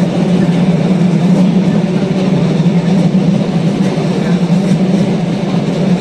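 Red DB S-Bahn electric multiple unit running slowly past close by: a loud, steady electric hum over the rumble of its wheels on the rails.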